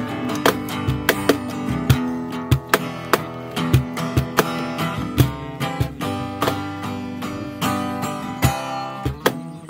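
Acoustic guitar strummed in chords, an instrumental stretch with no singing.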